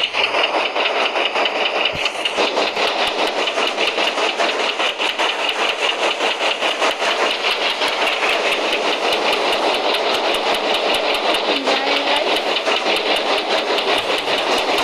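Passenger train running, heard from inside the carriage: a loud, steady rumble with a fast, continuous rattle and clatter of the wheels and coach.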